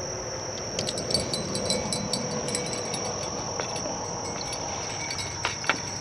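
Steady high-pitched chorus of crickets and other night insects. It is broken by scattered light clicks and small tinkling sounds, mostly in the first half and again near the end.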